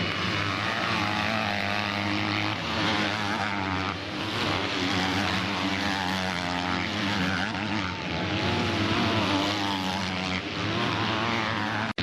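Several motocross bike engines racing, their pitch rising and falling as they rev through the track, overlapping one another.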